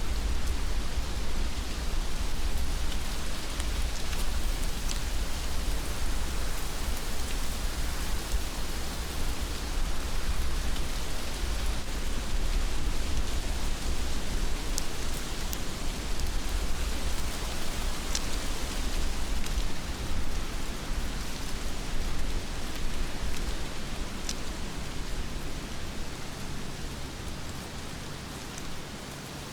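Heavy rain falling steadily: a dense, even hiss with a low rumble underneath and an occasional sharper drop hit. It eases slightly near the end.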